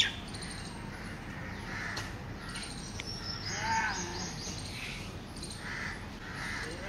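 Birds calling: a sharp chirp right at the start, then scattered short calls over steady background noise.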